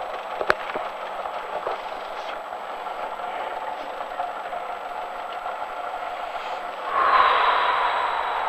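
Rally car engine idling, heard inside the stripped, roll-caged cabin, with a couple of sharp clicks about half a second in. About seven seconds in the engine noise suddenly gets louder, with a slightly falling tone, and then eases off a little.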